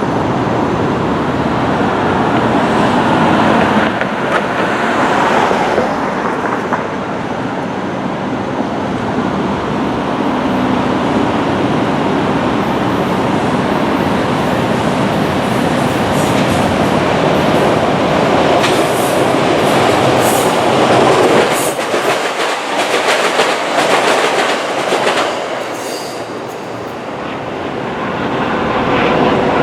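E217-series electric multiple-unit train passing, its wheels clicking over rail joints with a brief high wheel squeal. The sound eases off about 26 seconds in, then swells again at the end.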